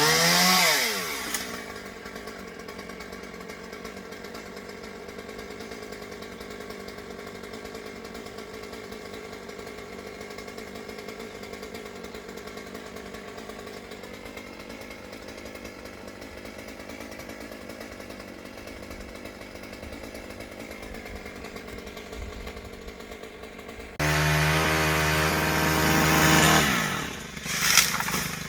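Two-stroke chainsaw revving and dropping back to a steady idle, which runs for about twenty seconds. Near the end it suddenly comes up to full throttle, then falls away again.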